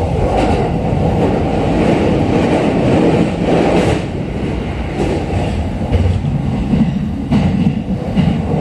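Running noise heard inside a JR East E531 series electric commuter car at speed: a steady rumble of wheels on rail, easing slightly in level about halfway through.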